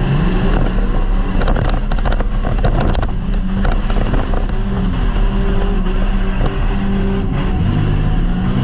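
Demolition derby car's engine heard from inside its cabin, revving up and down as the car is driven, with a burst of clattering knocks about one to three seconds in.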